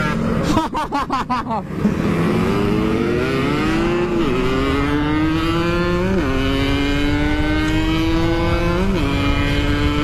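Yamaha RX-King's two-stroke single-cylinder engine, blipped quickly a few times, then accelerating hard through the gears. The engine note climbs in pitch and drops sharply at three upshifts, about 4, 6 and 9 seconds in.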